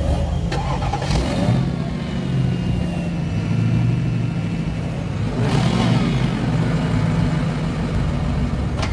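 Car engines running, with vehicles driving past: a steady low engine hum, with two louder swells about a second in and around five and a half seconds in.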